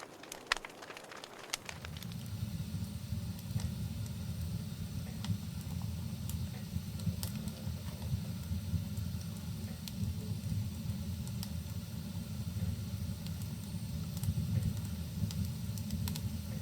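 Wood fire crackling with sharp pops, joined about two seconds in by a steady low rumble of burning, with occasional pops over it.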